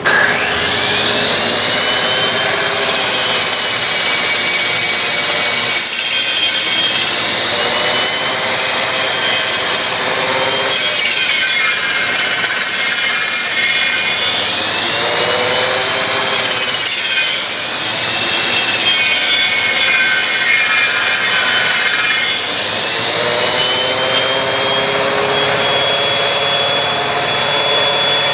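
Small angle grinder fitted with a saw blade cutting into a spinning wood blank on a homemade copy lathe. The grinder's high whine sags in pitch several times as it bogs under the cut and then recovers, over a steady rasping of the blade on wood.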